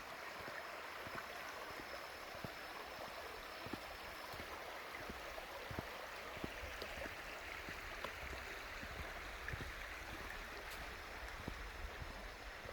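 Stream water flowing steadily, with many small irregular clicks throughout.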